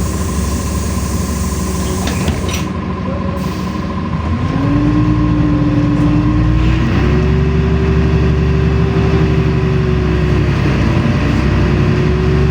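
LiAZ-5292.65 city bus heard from inside the cabin: the engine idles, then about four seconds in it speeds up as the bus moves off, with a whine that rises in pitch and steps higher about seven seconds in, dipping and rising again near the end.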